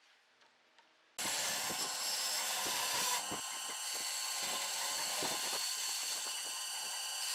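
A woodworking power tool switches on suddenly about a second in and runs steadily, cutting or working wood, with irregular knocks underneath.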